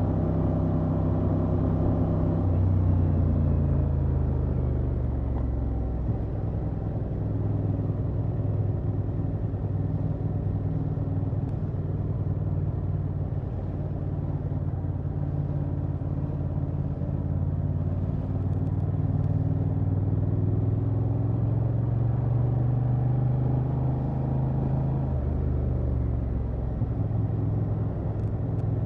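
Honda XL750 Transalp's 755 cc parallel-twin engine through its stock exhaust, heard from the rider's seat while cruising, with wind and road noise. The engine note drops about two seconds in, holds and slowly climbs, then drops again near the end as the throttle is eased.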